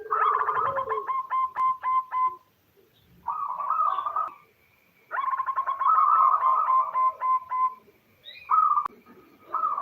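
Female zebra dove (perkutut) cooing: repeated runs of rapid staccato coos, each run lasting from half a second to a couple of seconds, with short pauses between. This is the call used to lure male perkutut into answering.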